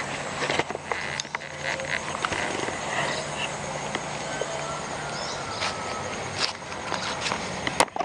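Rural outdoor ambience: a low engine hum that fades out about a second and a half in, then scattered clicks and short high chirps over a steady background hiss, with one sharper click near the end.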